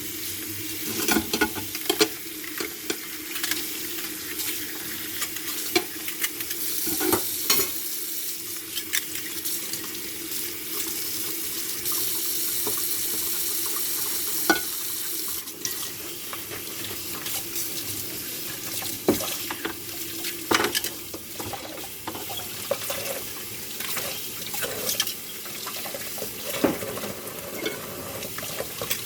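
Dishes being washed by hand in a sink: water running from the tap, with frequent clinks and knocks of dishes and cutlery.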